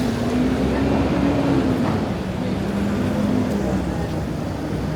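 Busy street traffic noise with a vehicle's engine hum that drops slowly in pitch as it passes.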